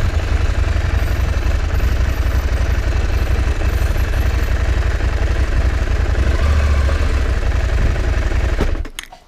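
KTM 790 Adventure's parallel-twin engine running at low speed with a steady low rumble, then switched off a little before the end.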